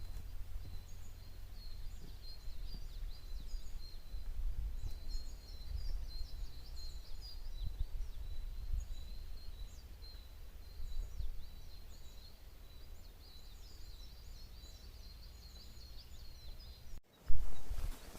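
Small birds chirping and twittering in many quick, short calls, over a steady low rumble. Near the end the sound cuts off abruptly and a single loud knock follows.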